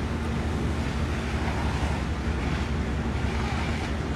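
Steady low hum of engines running, such as fire truck diesels at a fire scene, under a constant rushing noise with wind on the microphone.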